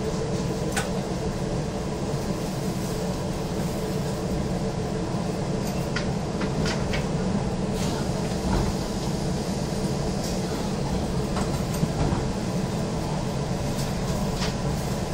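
Steady running noise heard inside the carriage of an Izukyu 2100 series electric train: a continuous low hum with a few light clicks scattered through it.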